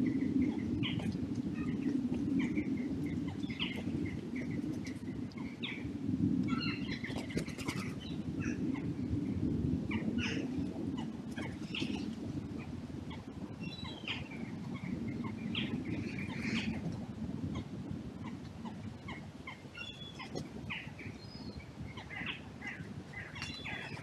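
Wild birds chirping and calling on and off with short, high notes, over a steady low rumble.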